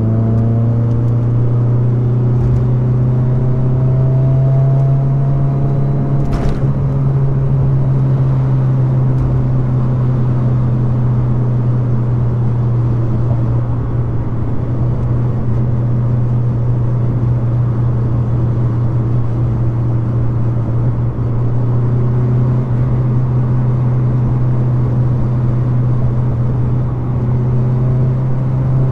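Mazda Miata's four-cylinder engine running at steady cruising revs, a continuous low drone mixed with road and wind noise with the top down. There are faint rising tones near the start and the end, and one brief click about six seconds in.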